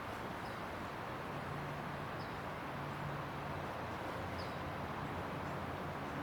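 Steady roar of freeway traffic, with a small bird giving a short, high, slightly falling call three times, about two seconds apart.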